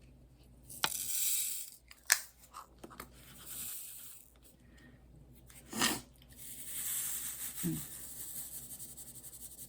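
Tearing and rustling in several stretches, with a few sharp clicks in between.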